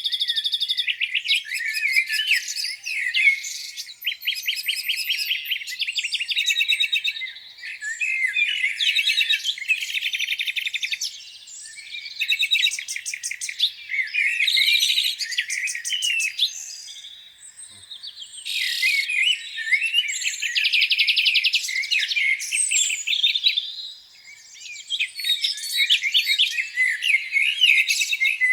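Several songbirds singing at once, with overlapping rapid trills, repeated chirps and quick sweeping phrases. There are a few brief lulls between bursts of song.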